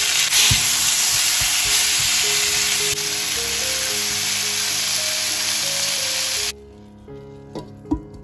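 Chopped vegetables and tomatoes sizzling in hot oil in a frying pan, with a few knocks of stirring. The sizzling cuts off suddenly about six and a half seconds in, leaving background music.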